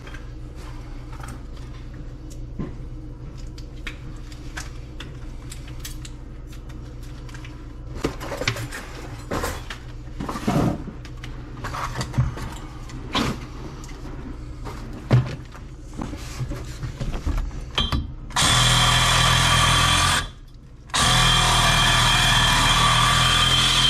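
Scattered knocks and clinks of tools and pipe fittings being handled. About three-quarters of the way in, a power tool runs loudly for about two seconds, stops for under a second, then runs again to the end.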